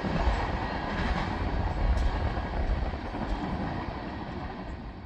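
CSX freight train rolling past at speed, a steady rumble of wheels on rail that slowly fades toward the end.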